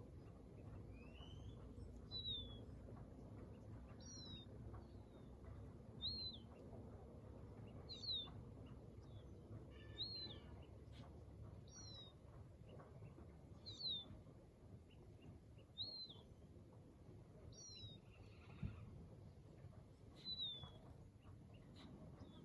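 A bird repeating a short, high, down-slurred call about every two seconds, over a faint low background rumble.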